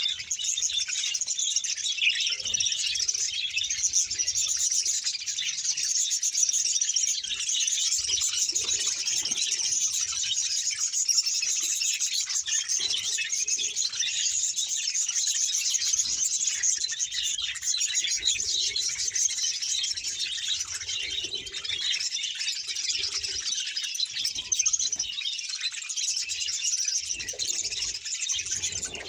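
A large colony of budgerigars, about a hundred pairs, chattering and warbling together in a dense, unbroken chorus of high chirps.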